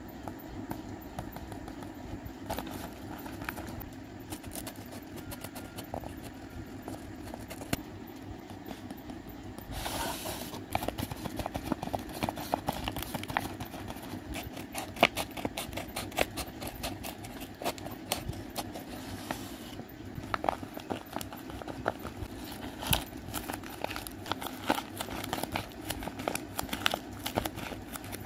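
Paper and tape crinkling and crackling as a hand-made paper blind bag and its tape-covered paper contents are handled. A rush of rustling comes about ten seconds in, followed by many sharp crackles, over a steady low hum.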